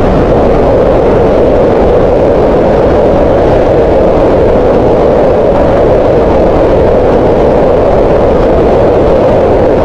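Green noise: steady, unchanging hiss concentrated in the middle of the hearing range around 500 Hz, with less energy in the deep bass and the highs.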